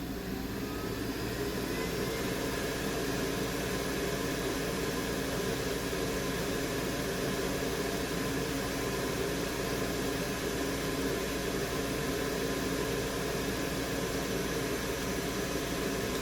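Steady rushing noise with an underlying hum from a soldering-bench fan, such as a fume extractor blower, running continuously.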